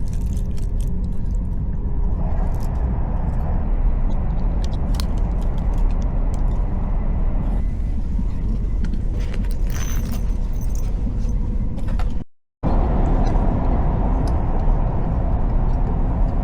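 Steady low rumble of a moving vehicle heard from inside the cabin, with faint rattles and ticks above it. The sound drops out completely for about half a second about twelve seconds in.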